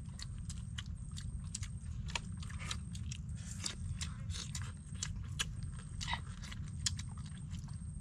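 Close-up eating sounds: people chewing and smacking mouthfuls of sweet and sour fish and rice, with many small irregular clicks and crunches. A steady low rumble runs underneath.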